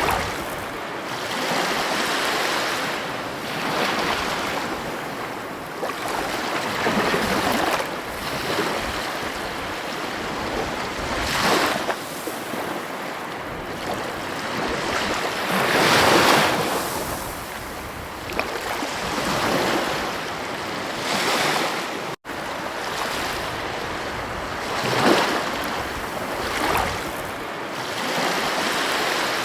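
Ocean waves breaking on a beach, the surf swelling and easing every few seconds, with one bigger wash about halfway through. The sound cuts out for a split second about three-quarters of the way through.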